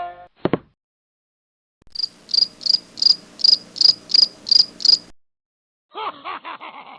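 Cricket chirping: nine even, high chirps at about three a second. Near the end a short wavering pitched sound follows. The gag is the classic awkward-silence cricket effect.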